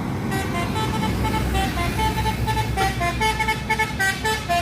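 A vehicle horn sounds a run of short notes that jump between several pitches, over the low, steady rumble of a heavy truck's engine.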